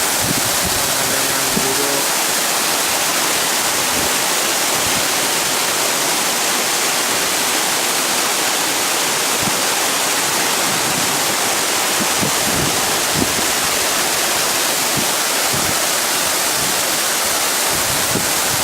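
Waterfall's falling water making a loud, steady rush.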